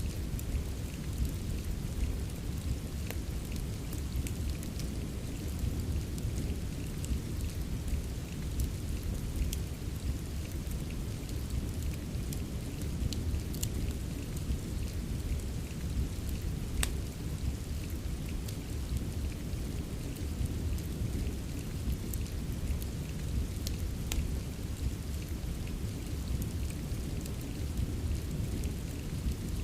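Steady rain with a continuous deep rumble, mixed with a wood fire whose sharp crackles pop out here and there.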